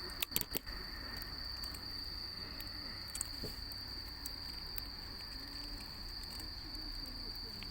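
Insects trilling on one steady high note without a break, with a few sharp clicks in the first second and another about three seconds in.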